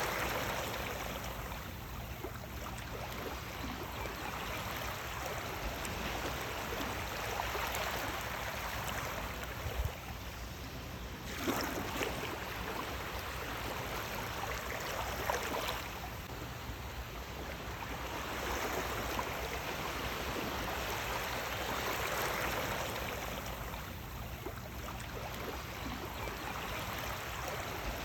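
Sea waves washing in and drawing back, a continuous wash of water that swells and eases every few seconds, with a few brief sharper splashes.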